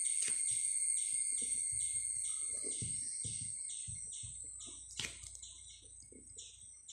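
A bird repeats a quick chirp, about two to three notes a second, over a steady high-pitched tone, and the chirping fades toward the end. Underneath are the faint scratches of a pen writing on paper, with a single sharp tap about five seconds in.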